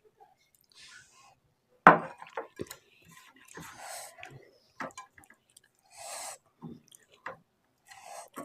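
Close-miked eating of a mouthful of rice and fish curry: wet chewing and lip smacks in short bursts, with a sharp click about two seconds in, the loudest sound.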